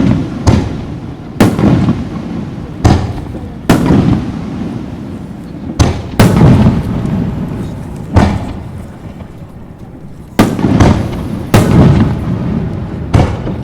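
Aerial firework shells bursting: about ten loud booms at irregular intervals, each trailing off in a low rolling rumble.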